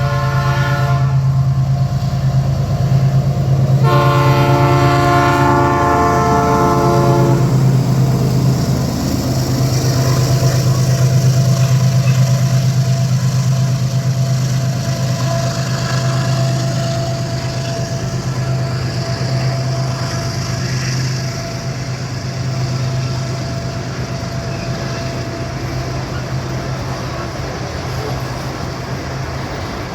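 ES43BBi diesel-electric locomotives of a loaded freight train passing: the horn ends a blast about a second in and sounds again in a long blast of several tones from about four seconds in, over the steady drone of the diesel engines and the rolling of the wagons on the rails.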